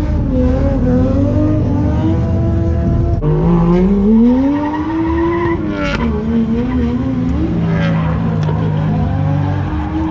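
Nissan 240SX drift car's engine revving hard and swinging up and down in pitch while the tyres squeal. About midway the revs climb for two seconds, then drop abruptly with a sharp pop.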